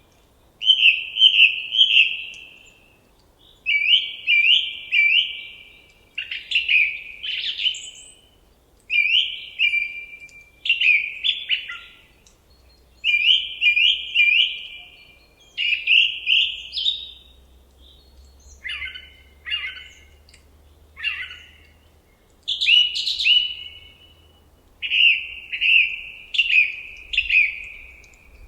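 A songbird singing a short phrase of about three quick down-slurred whistled notes, repeated every two to three seconds, with a few differently shaped phrases mixed in.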